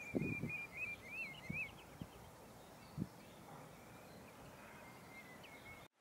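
A thin, wavering bird whistle, faint and continuous for about the first second and a half, returning briefly near the end, over a few soft low thumps. The sound cuts off suddenly just before the end.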